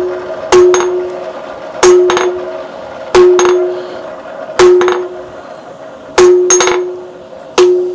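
Hammer striking hot steel on an anvil during a forge weld: measured, fairly light blows about every second and a half, with a quick double blow near the end. Each blow is followed by the anvil's ringing tone.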